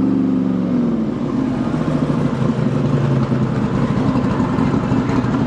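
Car engine revving, its pitch falling back over the first second, then running at a steady lower speed.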